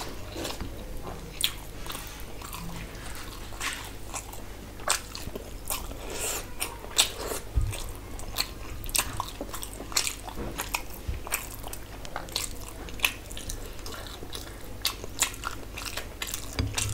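A person chewing rice and curry eaten by hand, with wet, irregular mouth smacks and clicks, over a low steady hum.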